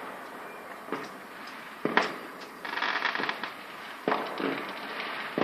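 Fireworks going off: separate sharp bangs about a second in, near two seconds and around four seconds, with a stretch of dense crackling between them, and another bang with crackle at the very end.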